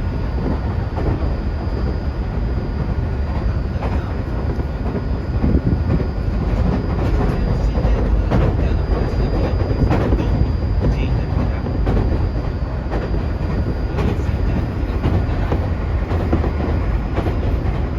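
Tokyu 2020 series electric train running steadily, heard from inside the car: a constant rumble of wheels on rail with scattered light knocks from the track and a thin, high, steady tone above.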